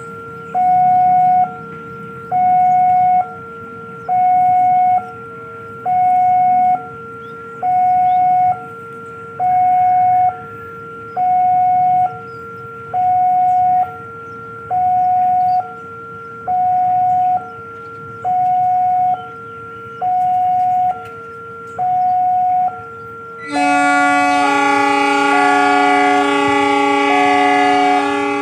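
Railway level-crossing warning alarm sounding a two-tone electronic signal, alternating a low and a high tone about once a second. About 23 seconds in, a locomotive's multi-tone horn sounds a long chord over it.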